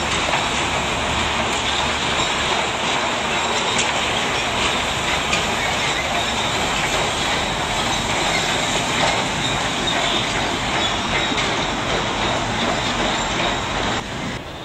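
A train rolling along the track: a steady rumble and hiss of wheels on the rails, with scattered clicks from the rail joints. The sound drops suddenly to a quieter level near the end.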